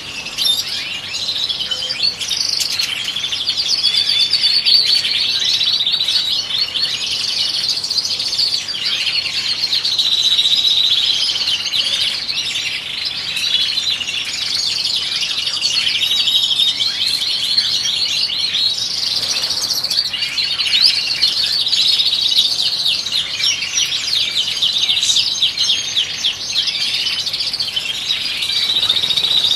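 European goldfinches singing: a continuous, fast twittering song full of quick trills.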